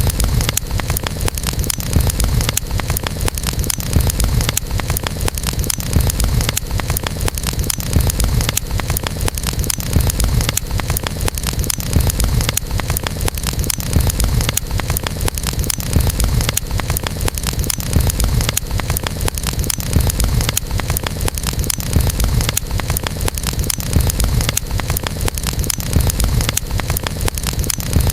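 Campfire crackling: a dense stream of small pops and snaps over a steady low rumble of the burning fire, the same swell repeating about every two seconds.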